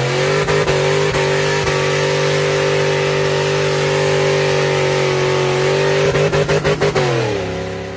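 Truck engine held at high, steady revs during a burnout, with a rapid stutter at the start and again around six seconds in. The revs fall away near the end.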